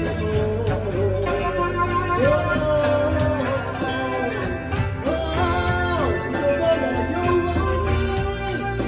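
A live band playing a song. The lead melody holds long notes and slides between them, over steady bass, drums and chords.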